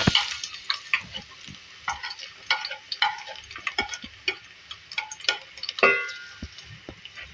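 Chopped garlic frying in hot mustard oil: a steady sizzle with many pops and crackles. A brief ringing scrape comes at the start and again about six seconds in.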